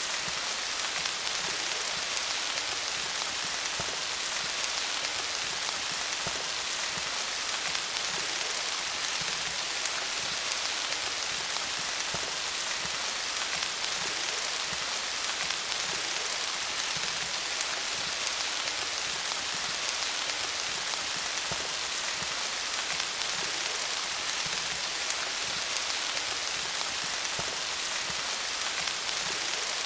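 Steady rain falling on leaves, a dense even patter of many drops with no change in intensity.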